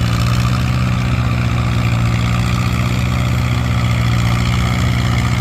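Allis-Chalmers WD-45 tractor engine running steadily at an even pitch.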